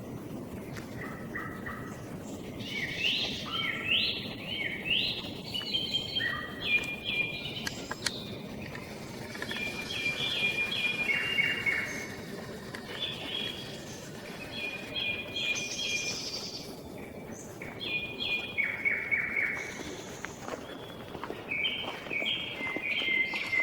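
A nightingale and a song thrush singing, one short phrase of clear repeated notes after another with brief pauses between.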